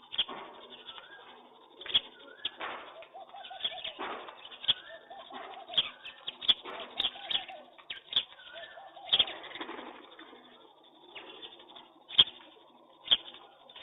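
Pigeons cooing in repeated phrases, mixed with frequent sharp taps and a few faint higher chirps from other birds.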